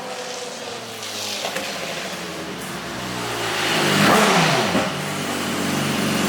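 Car engine revving and growing louder, peaking about four seconds in with a drop in pitch as it passes, then running on steadily.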